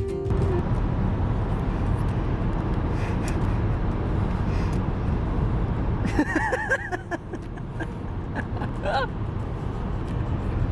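Steady low road rumble of a car driving, heard from inside the cabin. About six seconds in, a short wavering pitched sound is heard over it for a few seconds.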